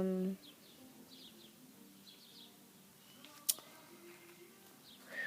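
Wild birds chirping in the background, short high calls repeating every second or so, with a sharp click about three and a half seconds in. A loud, steady pitched tone cuts off just after the start.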